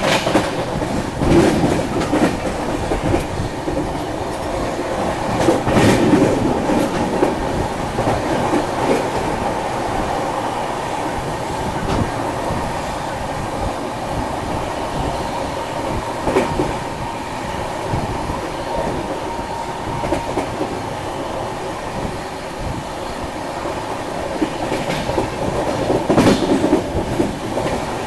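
Passenger train running at speed, heard from an open coach doorway: steady rumble of the coach with wheels clacking over rail joints and a few louder knocks, about one and a half, six, sixteen and twenty-six seconds in.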